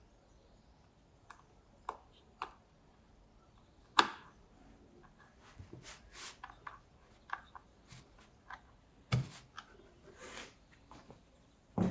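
Scattered clicks and knocks of hard plastic monitor parts being handled and fitted together, with one sharp knock about four seconds in and another pair a little before the end, between softer scrapes.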